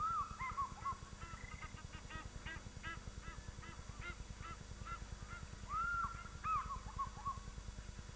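A flock of water birds calling, with many short overlapping goose-like honks and two louder, longer calls about six seconds in, over a low steady hum.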